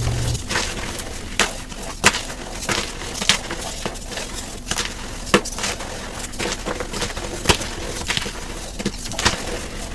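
Gym chalk being crushed and crumbled, played back at double speed: a run of sharp, irregular crunches and crackles, with a louder crack every second or so.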